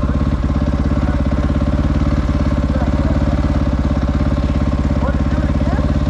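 Supermoto motorcycle engine idling steadily with an even, rapid throb.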